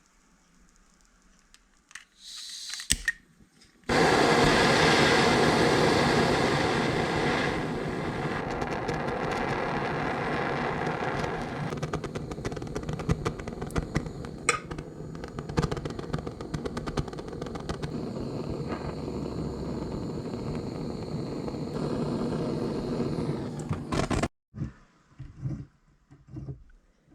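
Handheld rotary engraver running for about twenty seconds, loudest when it starts, then steady, and cutting off suddenly near the end; a brief burst of it comes a couple of seconds before the long run.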